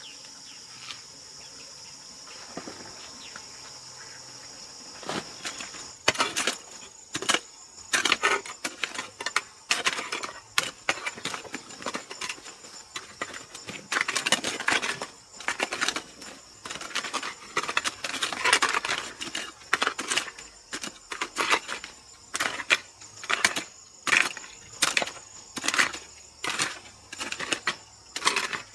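Insects chirring steadily, and from about five seconds in, a run of repeated rustling, scraping strokes, about one or two a second, that are louder than the chirring.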